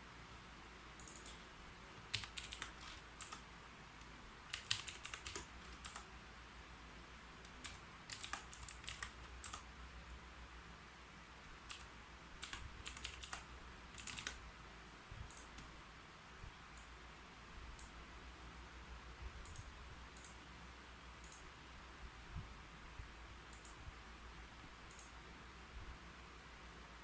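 Typing on a computer keyboard: quick runs of keystrokes in the first half, thinning to scattered single key presses later on.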